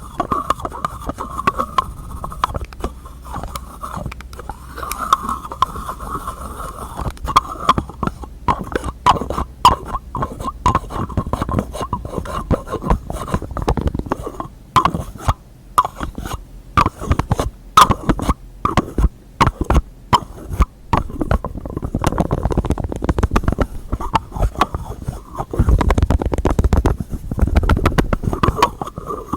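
Rapid, irregular tapping on objects and container lids, mixed with rubbing and scratching strokes, close to the microphone; the tapping is densest in the middle, with heavier thuds near the end.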